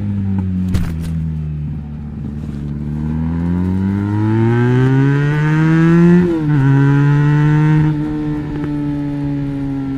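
Benelli BN302's parallel-twin engine through an Arrow exhaust with the dB killer fitted: the revs dip, then climb steadily for about three seconds, drop sharply a little past the middle and settle at a steady note.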